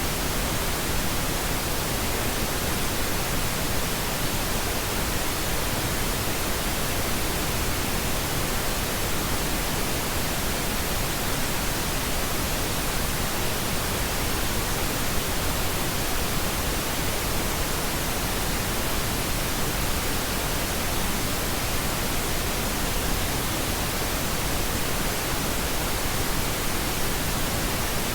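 Steady pink noise: an even, unchanging hiss spread across the whole range.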